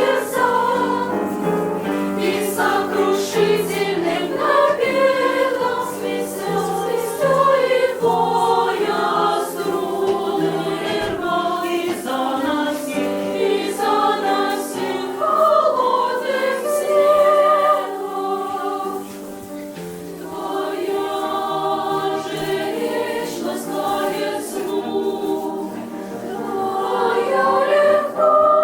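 Children's music-school choir singing in several parts, sustained voices moving together in slow phrases. The singing softens about two-thirds of the way through, then swells to a loud held chord near the end.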